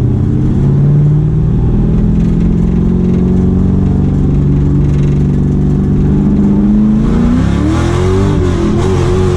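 LS V8 engine of a Nissan S13 Silvia drift car pulling hard in gear, its pitch climbing slowly. About seven and a half seconds in, the revs jump up and hold there, wavering, with a rise in hiss.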